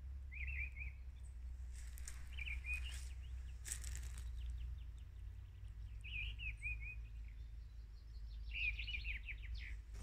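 Small songbirds chirping in short quick twittering phrases, about four times, over a steady low rumble of wind, with two brief hissy noises in between.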